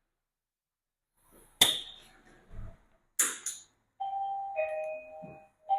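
Two sharp knocks about a second and a half apart, then an electronic two-tone ding-dong chime, a held higher note falling to a lower one, which starts over again near the end.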